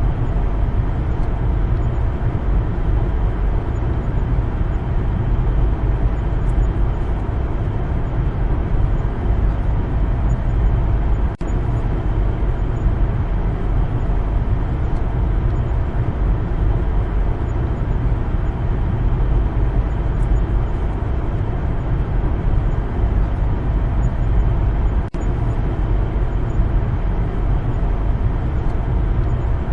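Steady low rumble of a car driving along a road, its tyre and engine noise running evenly, with two very brief dropouts, one about 11 seconds in and one about 25 seconds in.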